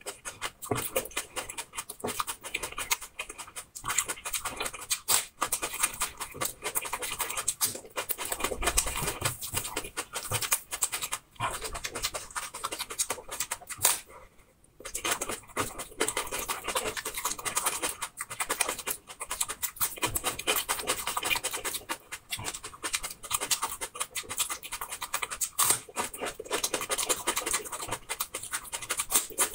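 Close-miked crunching and chewing of a small raw red onion, with crisp, wet crackles and mouth noises. There is a brief pause about halfway through.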